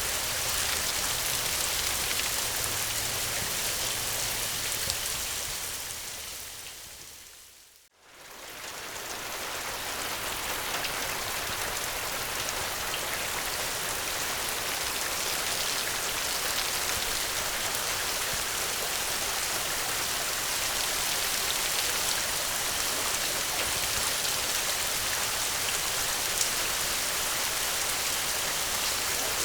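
Steady rain with a low rumble underneath in the first few seconds. About eight seconds in it fades briefly to silence and swells back up, a loop seam in the recording.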